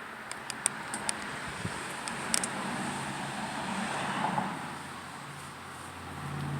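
A car passing on the road, its tyre and engine noise swelling to a peak about four seconds in and then fading. A few light clicks come in the first two seconds.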